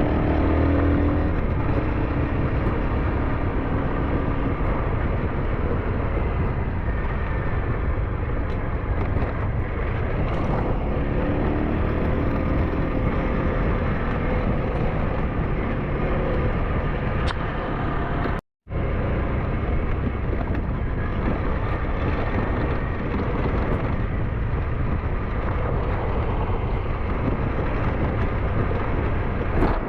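SYM NH T 200 motorcycle running under way on a forest track, a steady mix of engine and riding noise. The sound cuts out for a moment about two-thirds of the way through.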